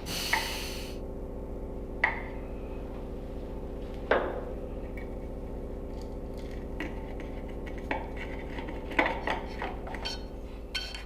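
A motor hums steadily under several sharp metallic clinks and knocks. The loudest knock comes about four seconds in.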